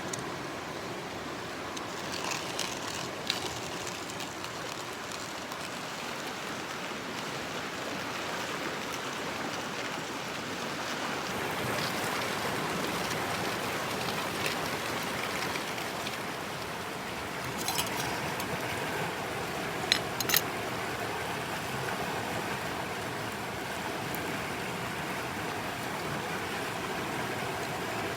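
Mountain stream flowing steadily, with a few sharp clicks about two to three seconds in and again twice around twenty seconds in.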